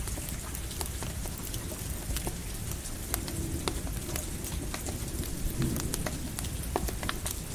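Steady rain mixed with a crackling campfire: an even hiss dotted with scattered sharp pops and ticks, over a low rumble of distant thunder.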